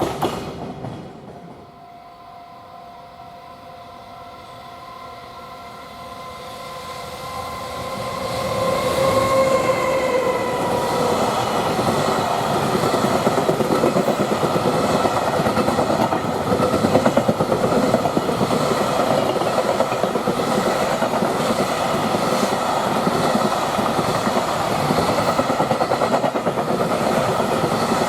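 Freight train approaching and passing: a rising whine whose tones dip slightly in pitch about ten seconds in as the locomotive goes by, then the wagons rolling past loudly with a steady clickety-clack.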